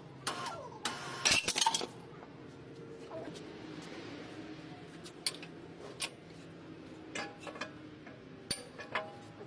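Scattered light metallic clinks and knocks, with a cluster of louder ones about a second in, over a faint steady hum.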